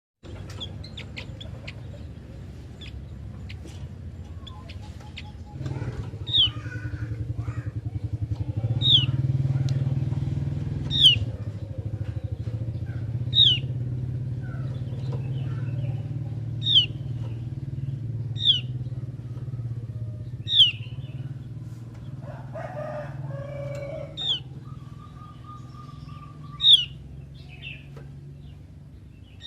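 Javan grey-throated white-eye calling: a short, sharp, downward-sweeping note repeated about every two seconds. A steady low hum runs underneath from about six seconds in.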